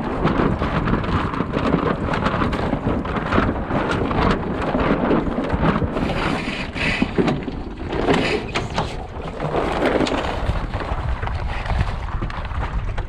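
Wind buffeting the microphone aboard an Enterprise sailing dinghy, a loud steady rumble with water rushing and splashing along the hull.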